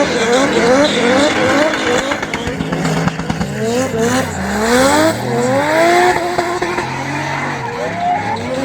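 Drift car engines revved hard again and again, the pitch climbing and dropping back many times over as the throttle is worked through the slide, with tyre skid noise underneath.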